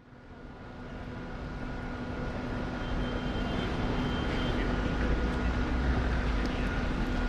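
City ambience fading in over the first two or three seconds: a steady low rumble with a constant hum, and a few faint clicks in the second half.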